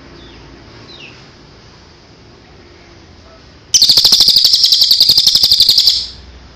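Songbird singing: a few faint short chirps, then about three and a half seconds in a loud, rapid trill of evenly repeated notes lasting about two seconds.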